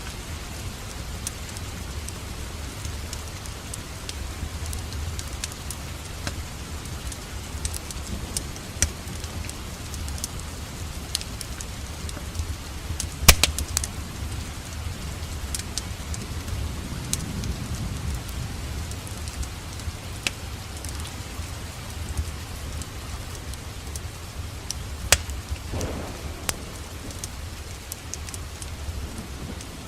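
Steady rain together with a wood fire crackling in a fireplace: a constant hiss over a low rumble, with scattered sharp pops, the loudest about 13 seconds in and another near 25 seconds.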